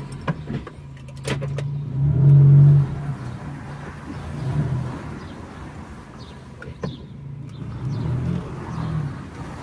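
Renault Twingo's small four-cylinder petrol engine running just after being started, revving up briefly about two seconds in, then running at low revs while the car is moved. A few sharp clicks are heard, the clearest about seven seconds in.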